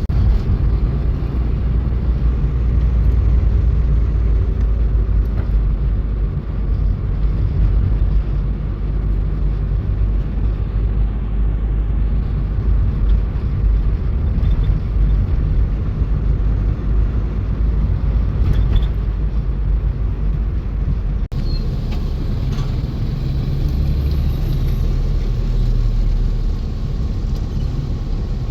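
A car driving: steady low engine and road rumble, with a brief dropout about three-quarters of the way through.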